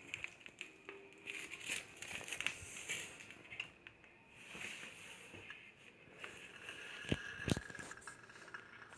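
Handling noise: crinkling and rustling of paper or plastic with scattered small clicks, and two sharper light knocks near the end.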